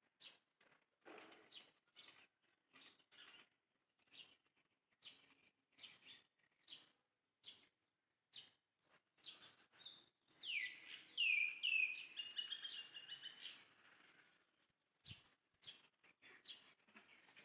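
High-pitched animal chirping: short chirps every half second or so, then, about ten seconds in, a louder three-second run of quickly repeated falling chirps.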